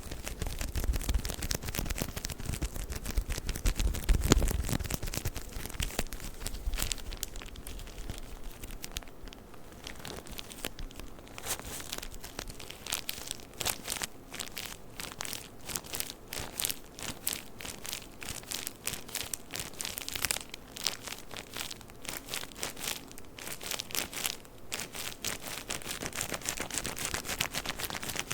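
Tissue paper package crinkling and crackling as it is handled close to the microphone, in a dense run of small crackles, with heavier low bumps of handling in the first few seconds.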